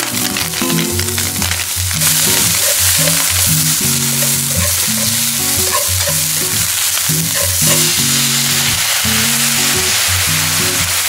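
Spam and sliced onion sizzling in a hot frying pan, tossed with chopsticks. The sizzle gets louder about two seconds in. Background music with low notes plays underneath.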